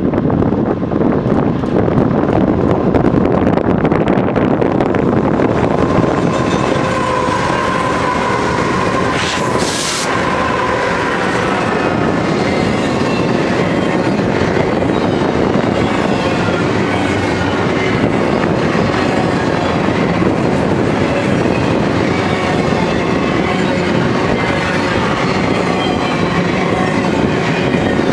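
BNSF intermodal freight train rolling past at speed: a steady, loud clatter of wheels on rail. Thin squealing tones from the wheels drift in and out, most noticeably about eight to ten seconds in.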